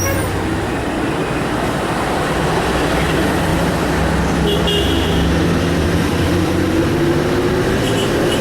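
A motor vehicle's engine running with a low steady drone under a constant rushing roar.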